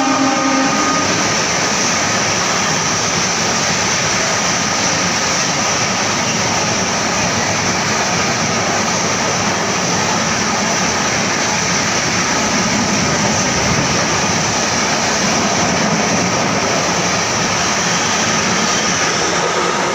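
Indian express train passing at high speed: a steady, loud rush of wheels on rails, with the end of its horn fading out in the first second.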